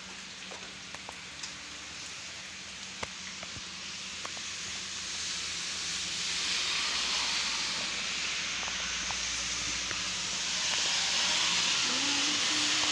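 Rain pouring down steadily during a thunderstorm, growing heavier about six seconds in and again near ten seconds, with a few separate drip ticks in the first seconds.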